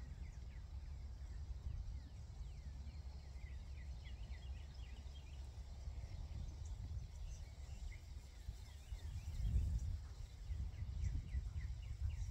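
Birds chirping in many short, quick downward-sweeping calls over a steady low wind rumble on the microphone, with a stronger gust near the end.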